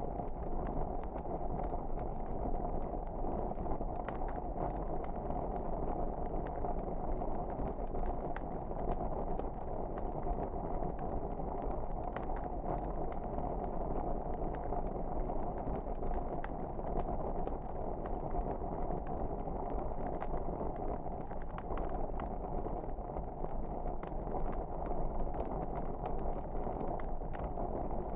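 Wood fire in a fireplace crackling, with frequent small sharp pops over a steady rushing of the flames.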